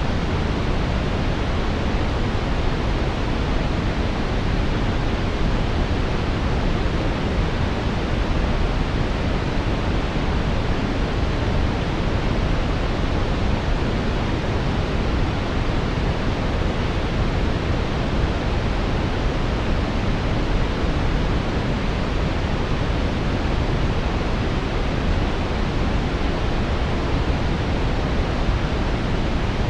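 Steady brown noise: a deep, even rushing hiss, heaviest in the lows and thinning toward the highs, with no change or interruption.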